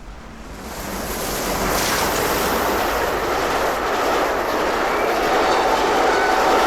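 Passing train: a rumbling noise swells over the first second or so, then holds steady and loud, with a steady high tone coming in near the end.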